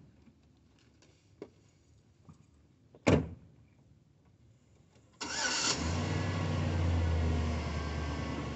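A few faint clicks and one loud thump about three seconds in. About five seconds in a vehicle engine cranks briefly, catches and settles into a steady idle.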